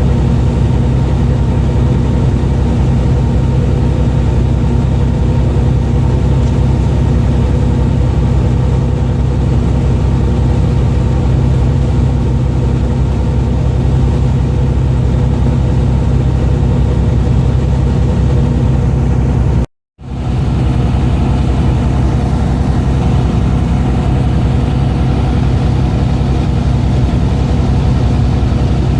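A boat engine running steadily at a constant speed, with a low hum. The sound cuts out completely for a moment about twenty seconds in, then picks up again the same.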